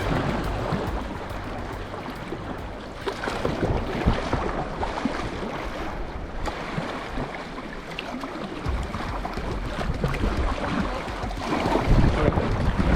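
River water rushing and splashing around a kayak, with wind buffeting the microphone in a low rumble.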